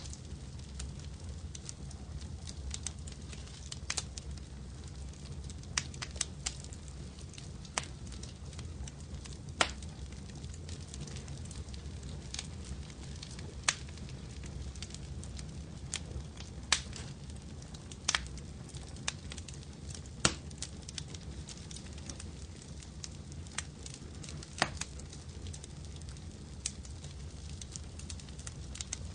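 Wood fire burning in a fireplace: a steady low rumble with irregular sharp crackles and pops every second or two.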